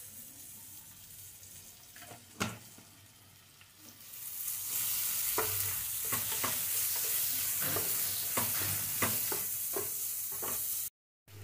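Sliced onions, garlic and dried chillies frying in mustard oil in a non-stick frying pan, stirred with a wooden spatula. The first few seconds are quieter with a couple of spatula knocks; from about four seconds in the oil sizzles loudly while the spatula scrapes and taps against the pan, and the sound cuts off abruptly near the end.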